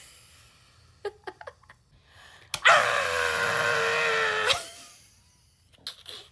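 A person vocalising a loud, drawn-out howl-like animal noise for about two seconds, its pitch sagging slightly before it breaks off. A few faint small sounds come a second or so earlier.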